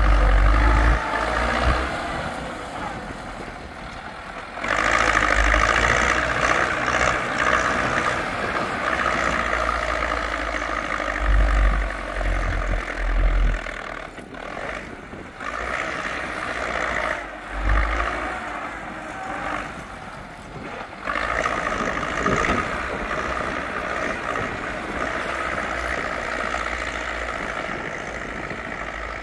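Zetor tractor's diesel engine running under load in a field, its sound swelling and easing several times, with a few low thumps on the microphone.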